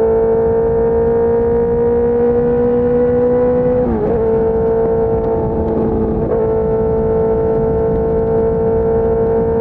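2004 Suzuki GSX-R600 K4 inline-four running through an SC Project race exhaust as the bike is ridden, its engine note slowly rising in pitch. The note dips and wavers briefly twice, about four and six seconds in, then carries on climbing.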